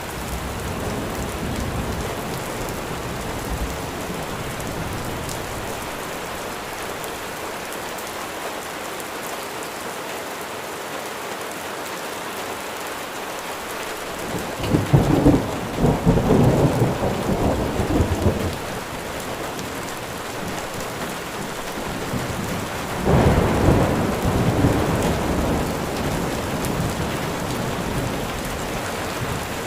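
Steady rain falling, with two rolls of thunder rumbling over it: one about halfway through, lasting a few seconds, and a second one later on.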